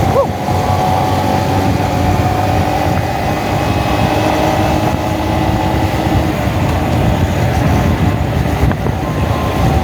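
Honda Monkey motorcycle's small single-cylinder engine running steadily, heard from a camera mounted on the bike, with wind rumbling on the microphone.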